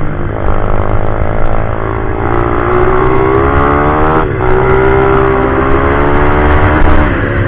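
Pit bike's small single-cylinder engine revving hard under acceleration. Its pitch climbs, dips at gear changes about two and four seconds in, holds high, then falls off near the end.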